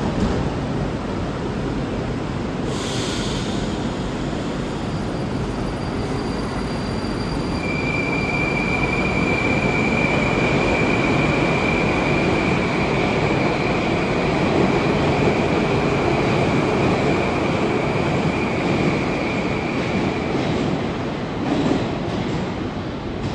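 Moscow metro train of the "Moskva" type running along the station platform, a steady rumble that grows louder toward the middle. A single steady high-pitched wheel squeal sounds from about a third of the way in until a few seconds before the end, with a brief hiss about 3 seconds in.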